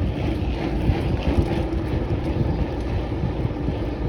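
Tractor running a hedge-cutter, a steady hum, under heavy wind buffeting on the microphone.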